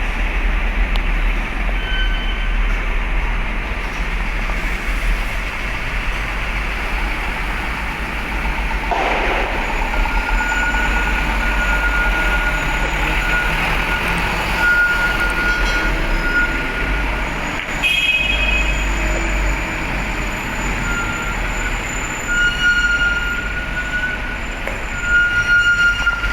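Steady rumble of truck engines running, with thin high-pitched metallic squeals that come and go from about ten seconds in.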